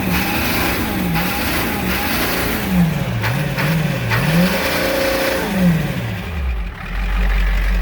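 A vehicle engine revving up and down repeatedly, its pitch rising and falling several times in quick succession. About two-thirds of the way through, the revving drops away and a steady low hum takes over.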